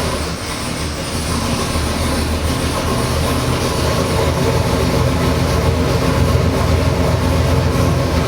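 Ford 347 stroker small-block V8 with multi-port fuel injection on an engine dyno, firing up and running steadily, a little louder over the first few seconds.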